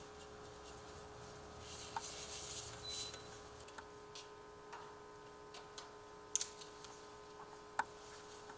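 Faint rubbing and a few light clicks as a door sweep is worked onto an aluminum expander channel, with a rubbing stretch about two seconds in and sharper clicks near six and eight seconds.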